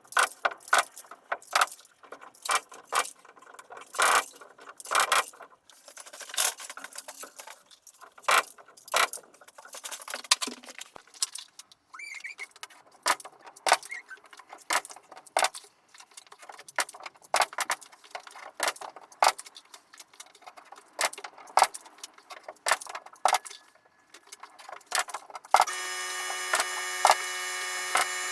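Carpentry work on wood: a quick, irregular run of sharp clicks and knocks from tools and lumber being handled and struck. About 25 seconds in, an electric power tool starts up and runs steadily at a constant pitch.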